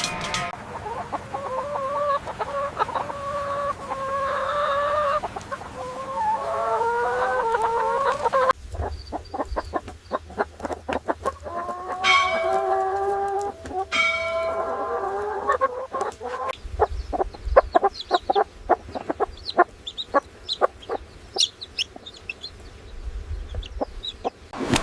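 Chickens clucking and calling, with several drawn-out calls that rise in pitch. About eight seconds in the sound changes abruptly to a run of quick, short clucks, with further long rising calls through it.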